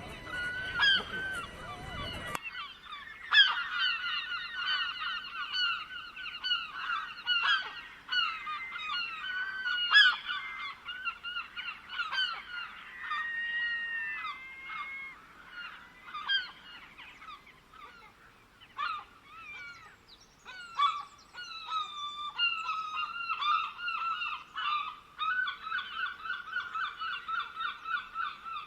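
A flock of birds calling, many short pitched calls overlapping and repeating in quick runs. A steady hiss underneath cuts off suddenly about two seconds in.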